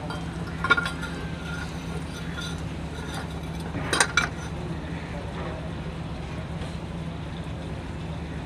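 Metal-on-metal clinks from tools worked on a truck wheel hub: one sharp strike early, then two close together about four seconds in, each ringing briefly. A steady low hum runs underneath.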